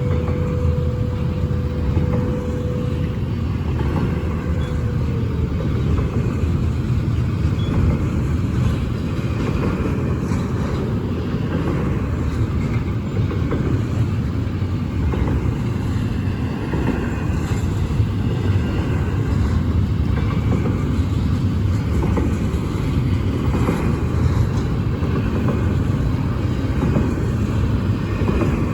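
Union Pacific intermodal freight train rolling past at a grade crossing: a steady, loud rumble of wheels on rail. A single steady tone is heard for the first few seconds; it drops slightly in pitch and fades out.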